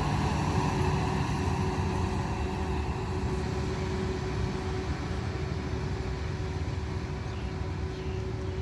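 Passenger train running with a steady low rumble and a faint steady hum, slowly fading as it moves away.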